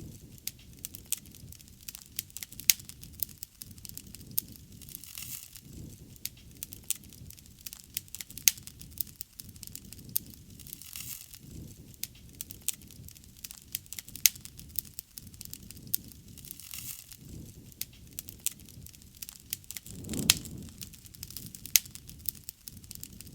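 Wood bonfire crackling, with frequent sharp pops over a low rush of flame that swells briefly about twenty seconds in.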